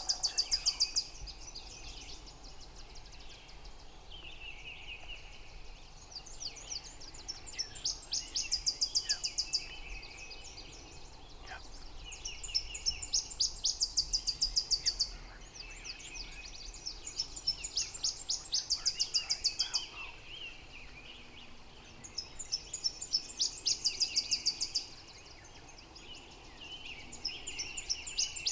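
High, rapid trilled bird calls in bouts of two to three seconds, repeated about every five seconds, with fainter, lower buzzy calls between them.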